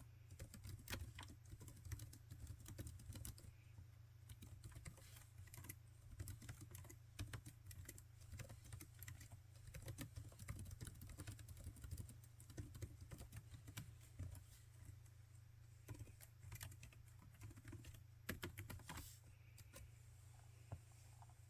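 Typing on a laptop keyboard: quiet, irregular runs of key clicks, with a few louder keystrokes near the end and a steady low hum underneath.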